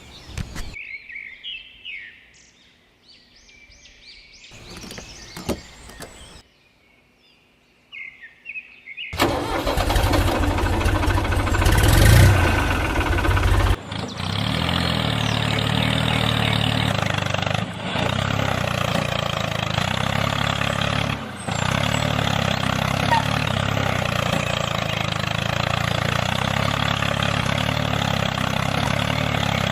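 An engine starting about nine seconds in after a quiet stretch with a few faint squeaks, then idling steadily with an even low chug.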